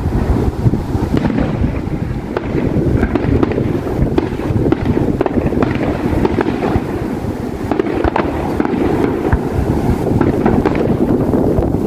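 Distant fireworks bursting and crackling, many sharp pops in quick succession, over a steady low rumble.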